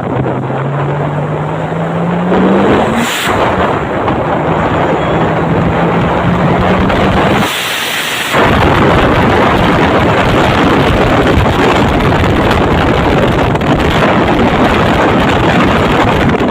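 Drift car engine revving up through a gear, with a shift about three seconds in and a steady pull after it. From about eight seconds in, a loud rush of engine, tyre and wind noise fills the cabin through the open window.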